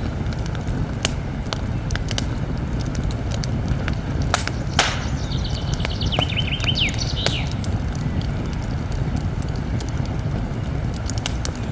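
Campfire crackling, with scattered sharp pops and a louder snap a little before five seconds in, over a steady low rumble of flames. Near the middle a bird sings a short trill that drops in pitch.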